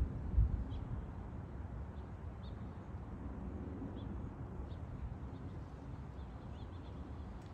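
Small birds giving short, high chirps every second or two, more of them near the end, over a steady low rumble. A low thump comes about half a second in.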